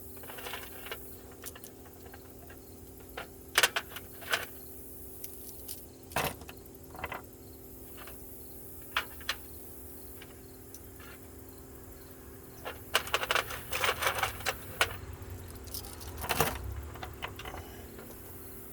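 Small steel sockets clinking and clattering against each other as they are handled and set down: scattered single clinks, then a longer run of rattling about two-thirds of the way in.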